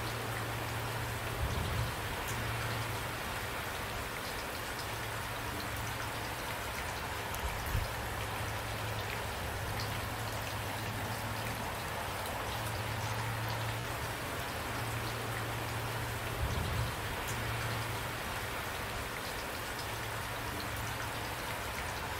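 Steady rain falling, with many small drop ticks through it and a low rumble that comes and goes.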